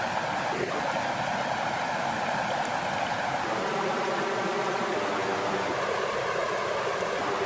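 Steady flowing water: an even rushing wash with no breaks.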